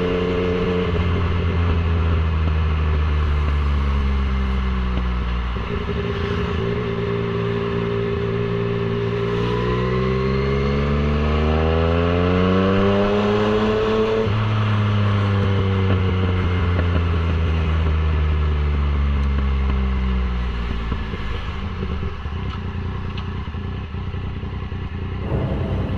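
Yamaha MT-09's inline three-cylinder engine running under way. Its note climbs steadily for several seconds about a third of the way in, then falls away slowly as the revs drop.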